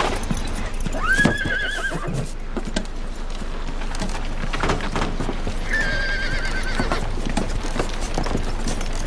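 Horses whinnying twice, about a second in and again near six seconds, each call a wavering high cry, over the clip-clop of hooves.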